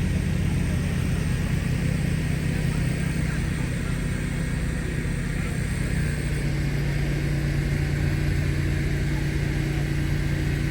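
An engine running steadily, its pitch shifting slightly about six seconds in.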